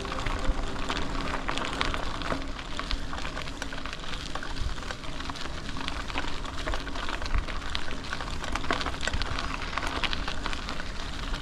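Bicycle tyres rolling over a gravel trail, a steady crackle of many small clicks, with wind rumbling on the microphone.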